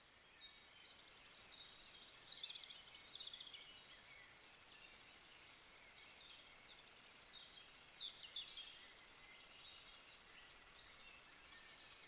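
Faint, distant birdsong of short high chirps over the steady hiss of a trail camera's microphone, with clusters of chirps about two to four seconds in and again around eight seconds in.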